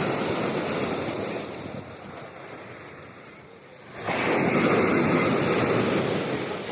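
Black Sea surf in a small storm: one breaking wave's wash fades over the first couple of seconds, then a second wave crashes suddenly about four seconds in and rushes loudly up the beach.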